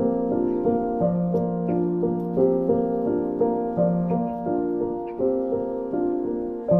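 Background music: slow, gentle solo piano playing sustained notes in a calm, repeating pattern.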